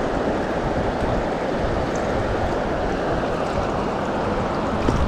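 Steady rushing of flowing creek water, an even noise with no distinct events.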